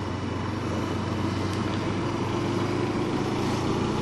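Suzuki Inazuma GW250's 248 cc parallel-twin engine running steadily at low revs, getting slightly louder.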